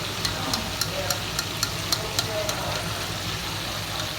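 Food frying in hot oil in a pan: a steady sizzle broken by sharp crackles and pops, about three or four a second.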